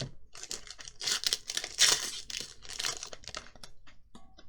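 Foil booster pack wrapper crinkling and tearing as it is opened, in a run of crackly bursts, loudest about two seconds in.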